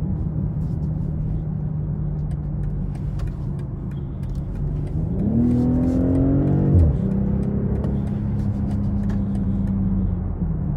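A 2020 BMW X6 40i's turbocharged 3.0-litre inline-six and road noise while driving: a steady drone, then the engine's pitch rises under acceleration about five seconds in and drops sharply with an upshift just before seven seconds, settling into a steady hum.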